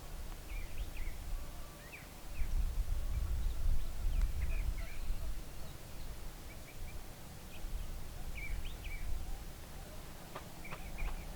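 Small birds chirping with short, scattered calls, over a low rumble that swells about two seconds in and then eases.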